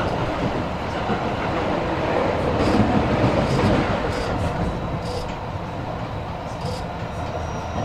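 Tobu 50000 series electric commuter train running, heard from inside the passenger car: a steady rumble of wheels on rail with a few faint clicks over rail joints.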